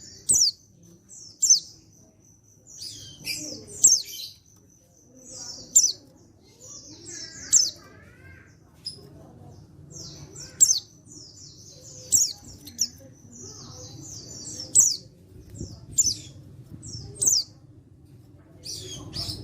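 Male pleci (white-eye) calling: short, sharp, high notes that slur downward, repeated every second or two, with softer buzzy chattering between them.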